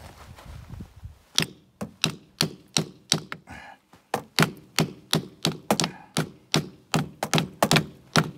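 Rapid, repeated hammer blows on wood, about two to three strikes a second, starting about a second and a half in with a brief pause near the middle.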